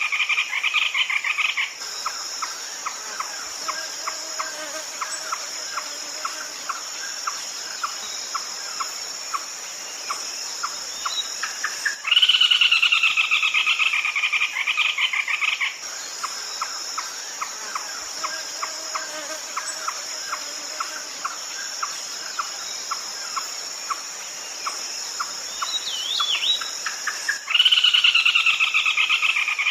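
Red-legged crake calling in loud bursts of about three and a half seconds each, three times, each a rapid run of harsh notes falling in pitch. Between the bursts there is a steady high insect drone and a regular ticking, about two to three a second.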